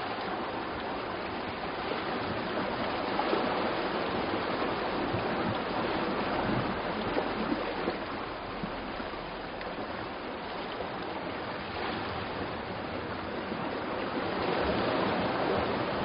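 Sea surf: a steady rushing of waves on the shore that swells and eases slowly.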